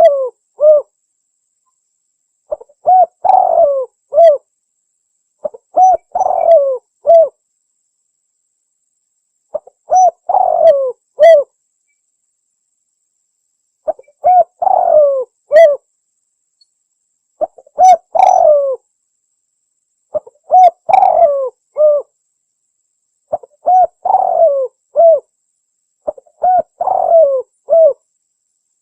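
Spotted dove (tekukur) cooing: a phrase of several low coos, repeated about every three seconds, nine phrases in all, with dead silence between them. It is a recorded lure call used to draw in wild doves.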